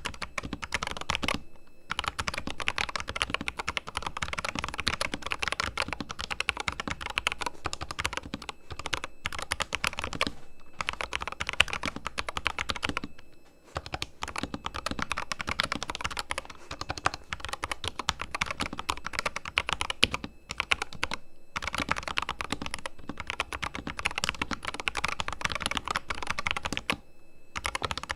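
Corsair K100 RGB mechanical keyboard, its switches fully lubed, typed on in fast continuous runs of keystrokes with a few short pauses.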